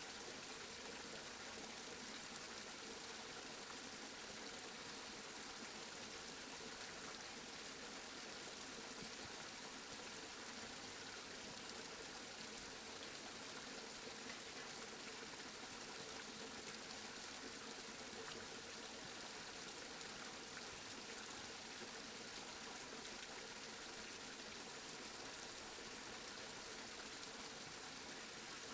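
Steady rain falling, an even hiss of drops with no pauses or thunder.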